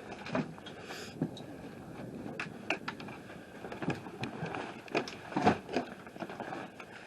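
A string of light, irregular knocks and clicks over a low steady rumble, most of them in the second half.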